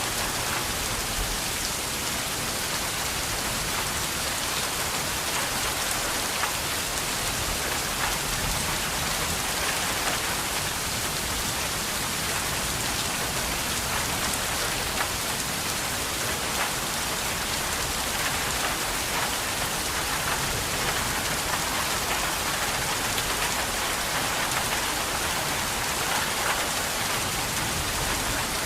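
Steady rain falling, a dense even hiss with many individual drop ticks.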